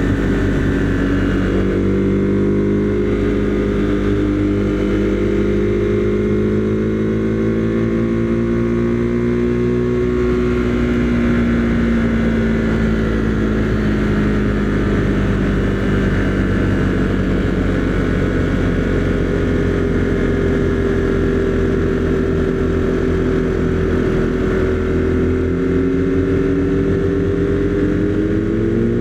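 Husqvarna Svartpilen 401's single-cylinder engine running steadily while riding. Its pitch sags slightly about a third of the way in and rises as it picks up revs near the end.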